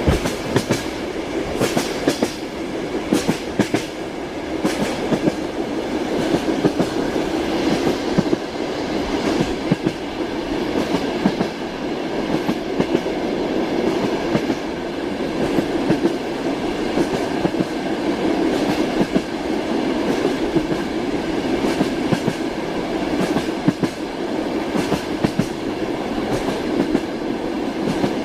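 Moving train: a steady rolling rumble with the clickety-clack of the wheels striking the rail joints over and over.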